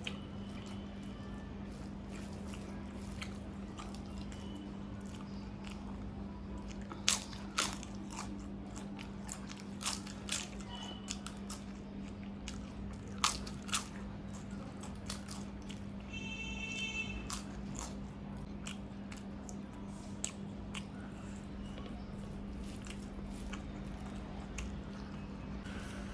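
Close-up eating: crisp food being bitten and chewed, with sharp crunches that come loudest in close pairs a few times, over a steady low hum.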